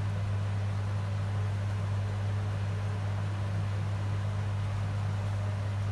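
Steady low hum with an even hiss from workbench equipment, unchanging throughout.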